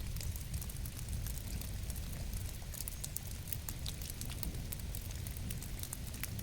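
Rain falling: a dense, irregular patter of drops over a steady low rumble.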